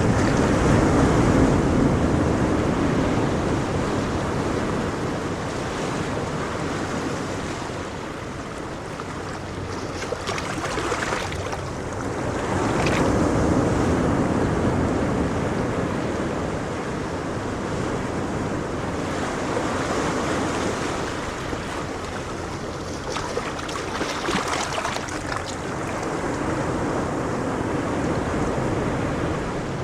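Ocean waves breaking and washing on a shore, in slow swells that rise and fall every several seconds, with some wind on the microphone.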